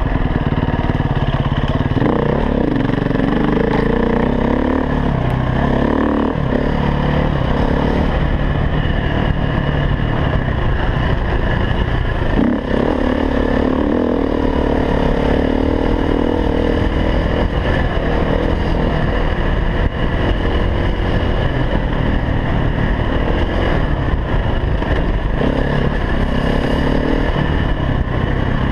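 KTM 350 EXC four-stroke single-cylinder dirt bike engine, ridden hard with the revs rising and falling repeatedly as the throttle is worked, with a brief let-off twice.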